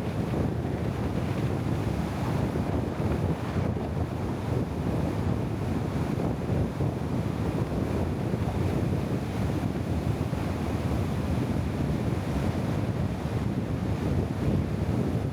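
Steady low rushing noise of wind buffeting the microphone, constant throughout with no distinct events.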